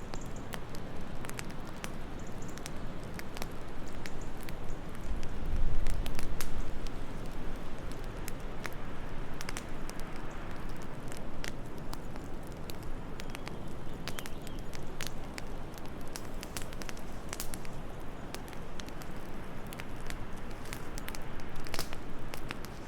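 Wood fire crackling in a fireplace, with frequent irregular pops and snaps over a steady low rush of wind. The low rush swells louder for a moment about five seconds in.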